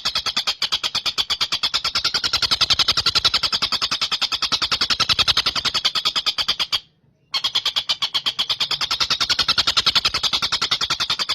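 Stork-billed kingfisher (tengkek buto) giving a long, rapid chattering call of short repeated notes, about ten a second. It breaks off briefly about seven seconds in and then carries on.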